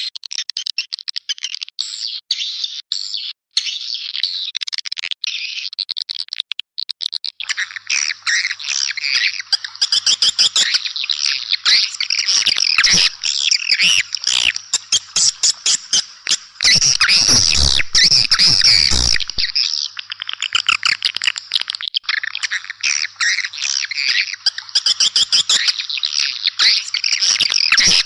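A dense chorus of rapid, high twittering chirps from edible-nest swiftlets, played as a swiftlet lure call. It starts sparser, becomes a continuous mass of chirps about a quarter of the way in, and is loudest and fullest for a few seconds about two-thirds of the way through. A faint low hum sits under it from about a quarter of the way in.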